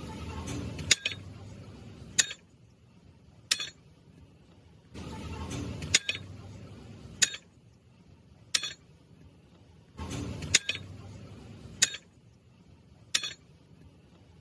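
Sharp metal-on-metal clinks, nine in all, evenly spaced about a second and a quarter apart in three runs of three, each ringing briefly. A low rumble cuts in and out between them.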